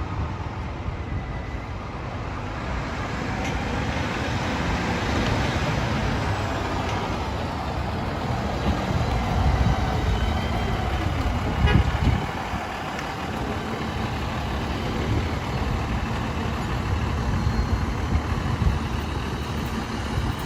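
City street traffic as a fire engine approaches, its engine growing louder toward the middle, with a brief horn toot about twelve seconds in.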